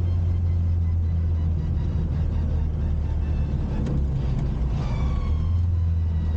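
Classic Mini's engine running with a steady low drone, the pitch shifting slightly about five seconds in.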